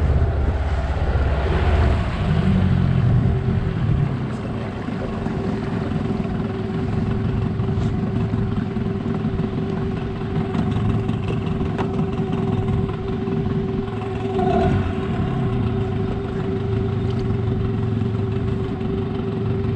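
Boat motor running steadily at low speed, a constant hum with a held tone over it.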